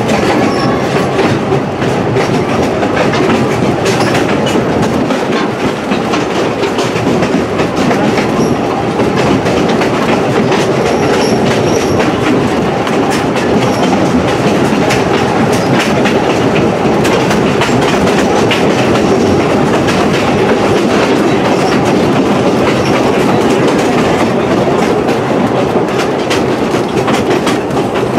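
Two-foot narrow-gauge passenger train rolling along the track, heard from aboard an open-sided car: a steady rumble with a constant rattle of clicks from the wheels on the rails.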